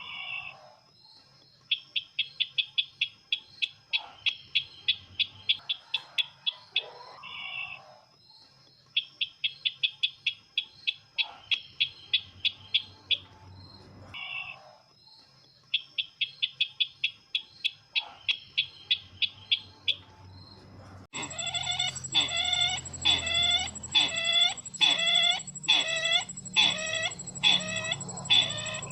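Sisintar ladang bird call played as a trapping lure: bursts of rapid, high chirping notes, each burst two to three seconds long, repeated after short pauses. Near the end it cuts abruptly to a louder, slower run of downward-sliding calls, about two a second, over a steady high whine.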